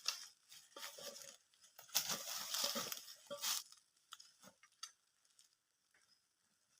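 Rustling and crunching in dry leaf litter and twigs, irregular for about three and a half seconds, then dying down to a few scattered crackles.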